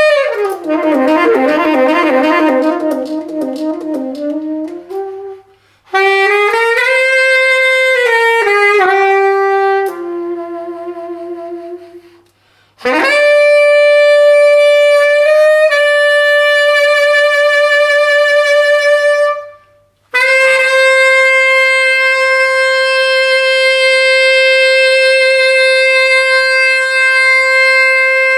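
Solo saxophone playing a slow melody in four phrases with short pauses between them. It opens with wavering, sliding notes and ends on long held notes.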